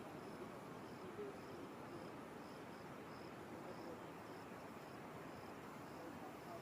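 Faint cricket-like insect chirping, a short high chirp repeating about twice a second, over a steady low background hiss.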